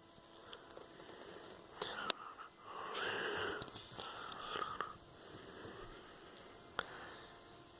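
A dog huffing and wheezing through its nose, loudest in a noisy stretch of about two seconds near the middle, with a few sharp clicks as it snaps its jaws at horseflies.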